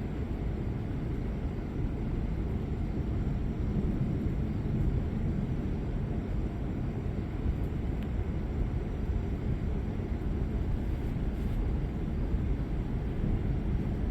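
Thunderstorm heard as a steady low rumble, with no sharp thunderclaps.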